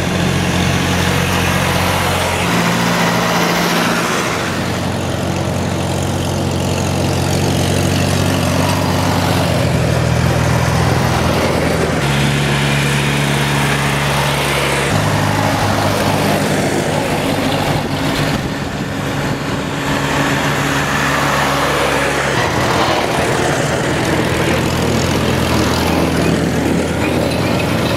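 Farm tractor engines running, a low drone whose pitch shifts every few seconds as different engines take over.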